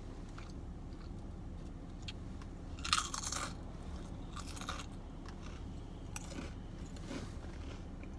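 Close-up eating: biting and chewing food with crunchy, crackly bites. The loudest crunch comes about three seconds in and a second one about a second and a half later, with smaller ones near the end.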